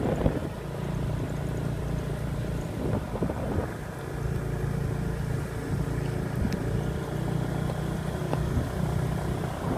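Small motorbike engine running steadily while riding, a low even hum, with wind noise on the microphone.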